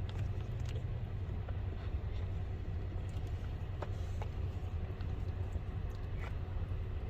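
Steady low rumble of a running vehicle, with a few faint light clicks.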